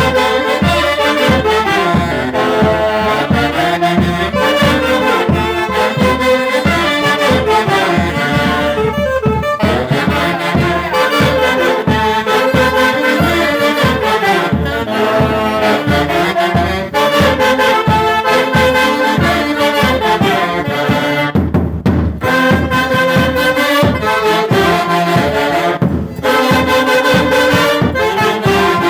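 A Mantaro-valley orquesta típica playing, its melody carried by saxophones and brass over a steady beat, with brief breaks in the sound about nine, twenty-two and twenty-six seconds in.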